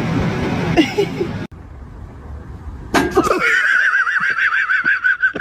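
A long, high, quavering animal call with a fast wobble in its pitch, starting suddenly about three seconds in.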